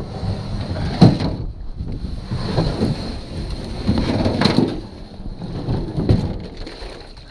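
Paddle strokes in the river water, four splashing surges about a second and a half apart over a low rumble.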